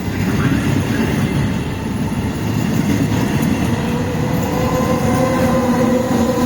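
Regional passenger train running by with a loud steady rumble of wheels on rails. From about halfway through, a steady whine grows stronger and creeps slightly up in pitch.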